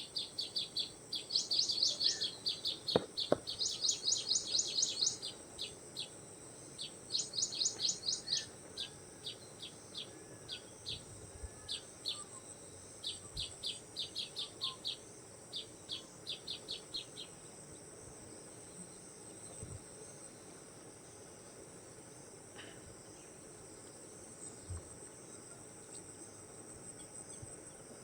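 A steady high-pitched insect drone, with clusters of rapid high chirps that thin out and stop about seventeen seconds in, and a few faint bird whistles.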